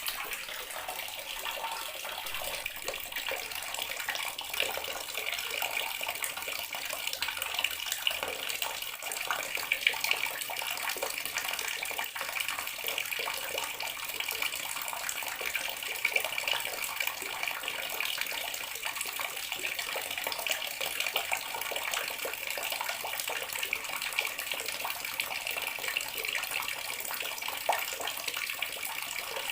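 Water running steadily from a bathroom sink tap, splashing into the basin.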